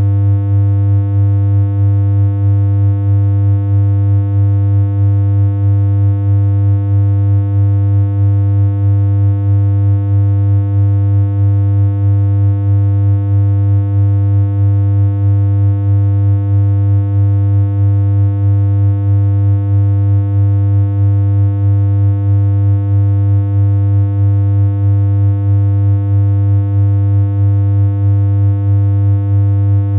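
A steady synthesized hum: one low electronic tone held without change, buzzy with evenly spaced overtones.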